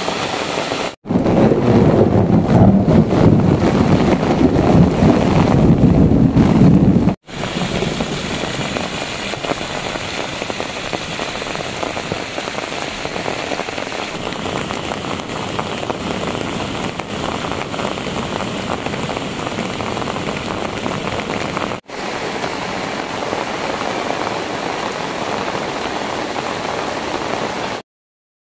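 Heavy rain with running runoff water. For the first several seconds there is a louder, deeper rush of muddy rainwater pouring down an earth bank, then a steadier hiss of falling rain. The sound breaks off briefly a few times and stops near the end.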